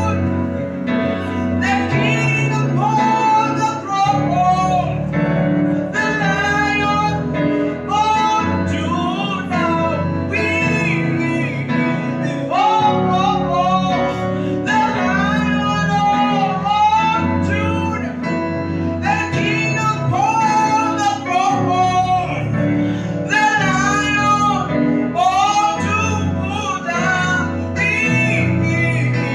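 Gospel worship song: a sung melody with vibrato over continuous instrumental accompaniment.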